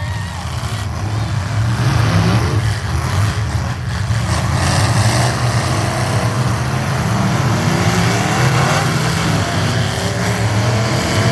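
Truck engines running loudly, with the pitch wavering up and down as the revs change.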